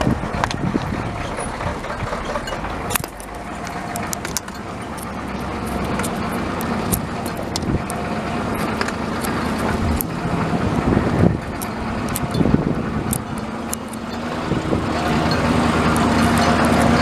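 Vehicle engine running as it drives over a rough dirt track, with rattles and knocks from bumps.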